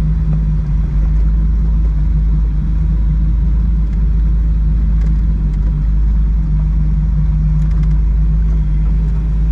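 Boat engine running steadily underway: a constant drone with a deep, unbroken rumble beneath it.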